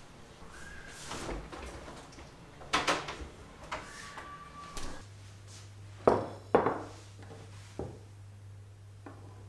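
Kitchen handling sounds: a series of knocks and clicks, like drawers or doors being worked, the two loudest close together about six seconds in. A low steady hum starts about halfway through.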